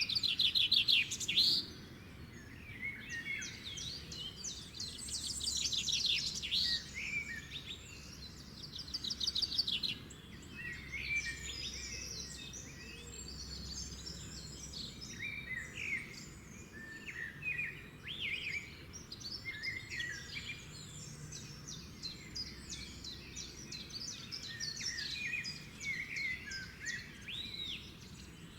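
Several songbirds singing and calling together, a dense mix of chirps, rapid trills and whistled notes, with the loudest trills in the first few seconds and around six and nine seconds in.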